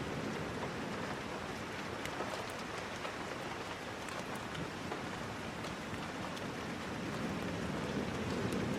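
Steady rain falling, with small sharp ticks of drops scattered through it; the low rumble of the downpour eases a little in the middle and swells again near the end.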